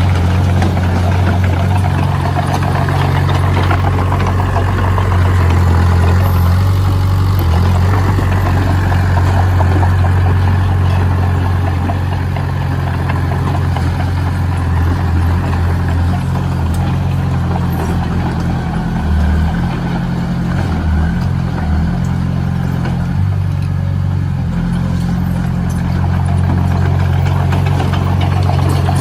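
Heavy construction machine's engine running steadily with a low drone.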